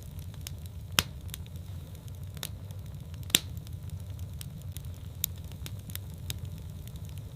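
Wood fire burning in a fireplace: a steady low rumble of flames with scattered sharp crackles and pops, two louder pops about a second in and near the middle.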